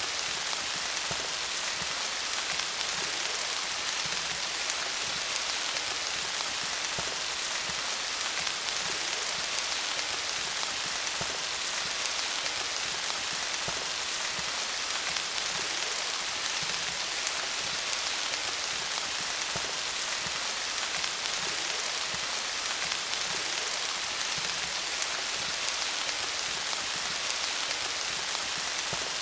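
Steady rain falling on leaves: a dense, even patter of drops hitting foliage, with no let-up.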